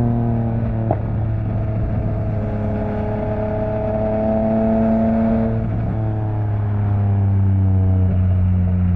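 Yamaha MT-09's three-cylinder engine running through an open Akrapovic exhaust while riding, its note easing lower in a few steps. There is a short click about a second in.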